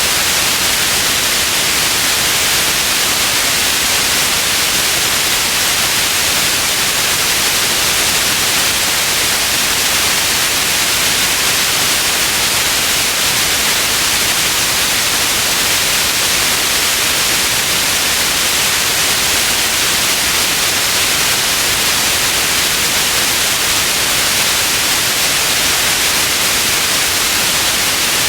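Steady white noise, an even hiss without change, brightest in the upper range.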